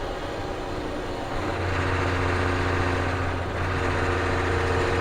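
Ford CF7000's 6.6-litre Brazil diesel engine running as the truck is driven, heard from inside the cab. About a second and a half in, its low drone grows louder and holds steady as the engine pulls harder.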